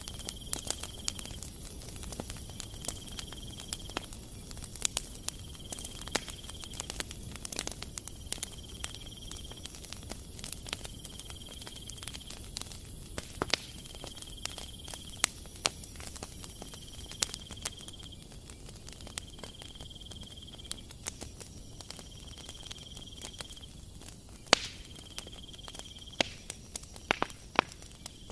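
Metal spoon stirring and scraping flour in a plastic bowl, with scattered light clicks and taps, and a few sharper knocks near the end. Behind it, a faint high-pitched tone about a second long repeats roughly every two seconds.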